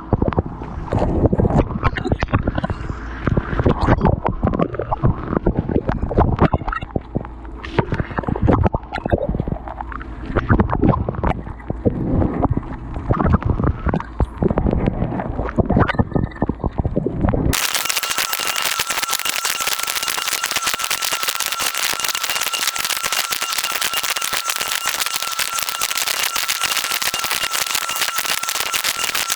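Dishwasher spray jets pelting a camera inside the dishwasher: muffled rumbling water with rapid, irregular knocking. Partway through it changes abruptly to a steady hiss with a thin, steady high whine.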